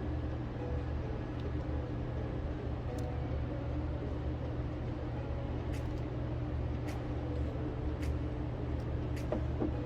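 Steady low rumble of a vehicle running, heard from inside, with faint sharp ticks about once a second in the second half.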